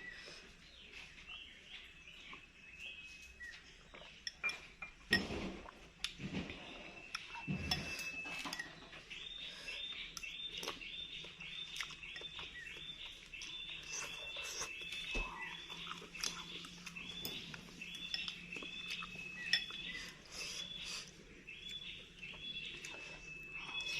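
A spoon clinking against a soup bowl while eating, then from about nine seconds in a small animal's high chirps repeating steadily, about two a second.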